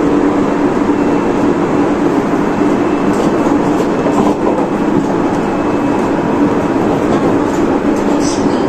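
Running noise of a Tobu 30000 series electric train with a Hitachi IGBT inverter, heard from inside the car: steady wheel and rail rumble with a faint hum of fixed tones from the drive, its pitch unchanging as the train holds its speed. A few light clicks come near the end.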